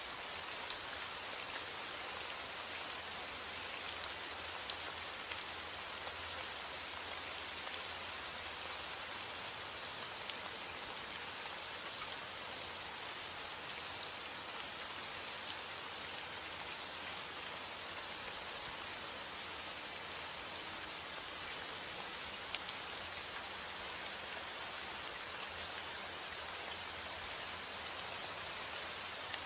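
Steady heavy rain, a dense even hiss with many scattered sharper drop ticks.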